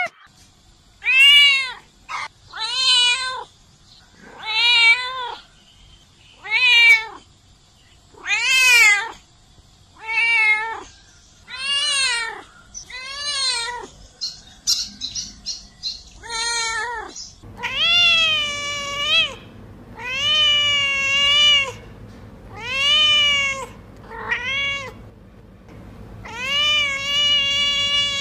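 Domestic cats meowing: a string of short meows that rise and fall in pitch, one every second or two, then longer, drawn-out meows over a low steady hum in the second half.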